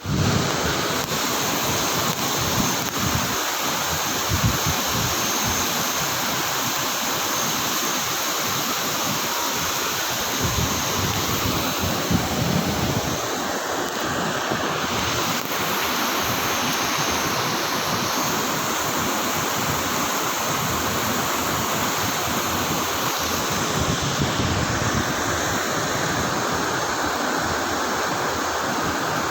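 Fairly heavy rain falling steadily, an even hiss of water, with occasional low rumbles underneath.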